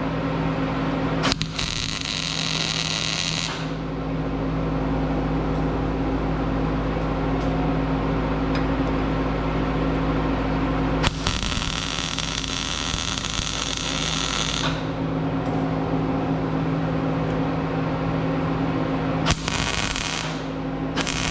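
Miller-Matic MIG welder laying a series of spot welds to fill a worn gap in a snowblower skid: three bursts of arc, each two to four seconds long, about a second in, about eleven seconds in and near the end, over a steady hum.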